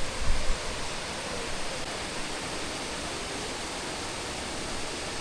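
Steady rushing of a waterfall and the river below it, an even hiss of falling water. A brief low rumble on the microphone right at the start.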